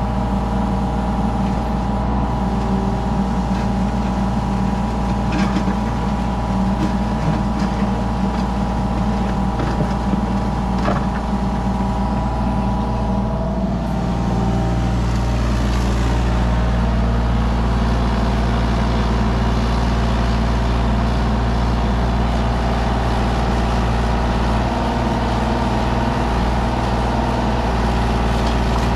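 Kubota mini excavator's diesel engine running steadily under working load as it digs, its note shifting about halfway through.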